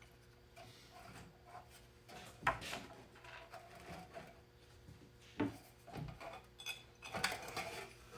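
Tools and metal parts being handled: scattered clinks, knocks and rubbing, with a sharp knock about two and a half seconds in.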